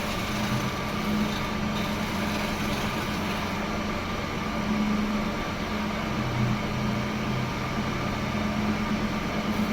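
A workshop woodworking machine's electric motor running steadily, with a constant hum under a broad mechanical noise.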